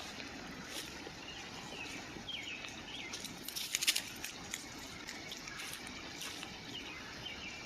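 Creek water running steadily, with a few faint short bird chirps. A brief cluster of sharp clicks comes about three and a half seconds in.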